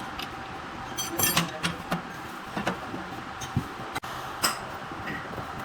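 Factory workshop noise: a steady machine hum under scattered light metallic clinks and knocks, with a cluster of clinks about a second in.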